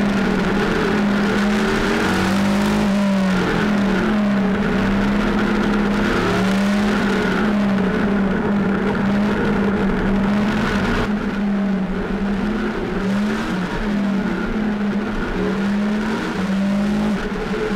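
Motorcycle engine running at a steady road speed with wind and road noise. Its pitch rises and falls slightly and repeatedly as the throttle changes.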